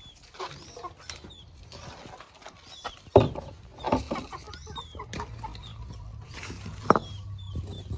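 Chickens clucking, with short high chirps scattered throughout and a few louder calls.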